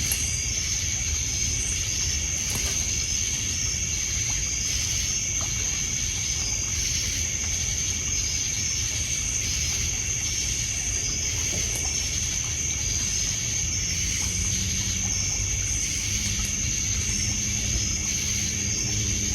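Crickets and other night insects trilling steadily in a dense chorus, with short chirps repeating about twice a second, over water lapping on a pebble shore and faint crackles from a campfire. A low steady drone joins in for the last few seconds.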